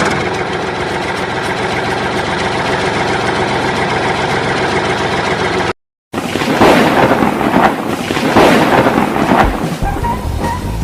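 A steady engine hum that stops abruptly about six seconds in. After a brief gap comes a loud, crackling rumble of thunder with rain.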